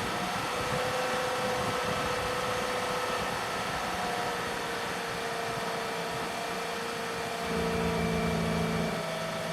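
2008 Chevrolet Cobalt's four-cylinder engine idling steadily just after a cold start, having sat unstarted all winter; it briefly runs louder and lower near the end.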